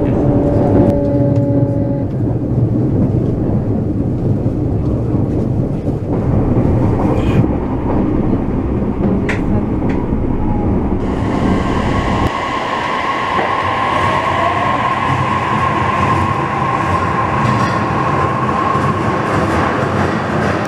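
Narita Express (E259 series) train running: a steady low rumble inside the moving passenger car. About twelve seconds in, it changes to the train moving past a station platform, with a steady high whine over the running sound.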